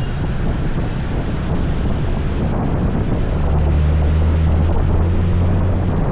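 Scooter engine running steadily under way, with wind buffeting the microphone; the engine's low hum grows louder a little past halfway.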